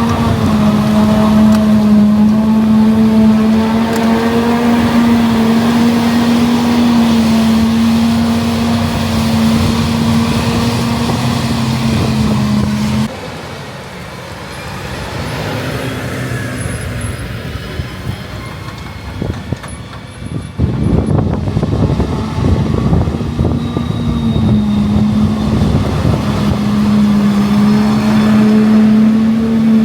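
Heavy forage-harvest machinery running under load: a steady, high engine and driveline hum. It cuts off abruptly about halfway through, giving way to a quieter stretch. A louder, rougher machine noise follows, and the steady hum comes back near the end.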